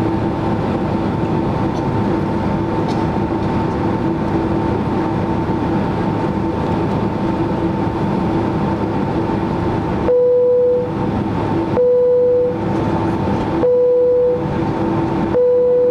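Steady rumble and hum of a Boeing 767-300ER's passenger cabin, heard over the wing. About two-thirds of the way through, four even, mid-pitched beeps about two seconds apart break in, the rumble dipping under each one.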